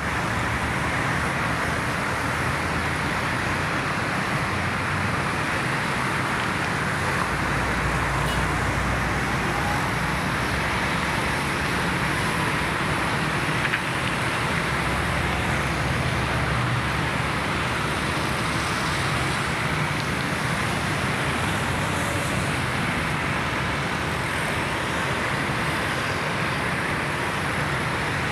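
Steady road traffic noise: an even, continuous hiss with a low rumble underneath that swells a little at times.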